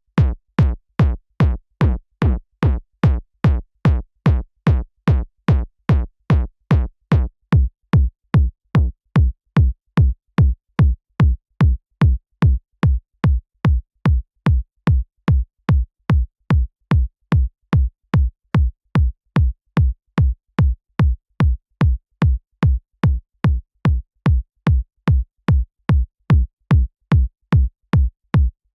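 A synthesized electronic kick drum looping on its own, about two hits a second, each a deep thump with a sharp click on top. It is being shaped in sound-design plugins: about eight seconds in, the ringing body of each hit becomes much shorter.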